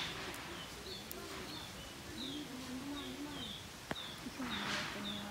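A bird giving a steady run of short, high, falling chirps, about two a second, with faint distant voices underneath, a single click about four seconds in and a short rustle near the end.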